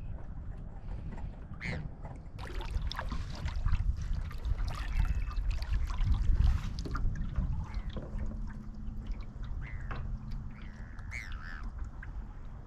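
Paddle strokes in marsh water, with splashing and trickling drips loudest for a few seconds in the middle, over a low wind rumble on the microphone. Two short bird calls, one rising near the start and one falling near the end.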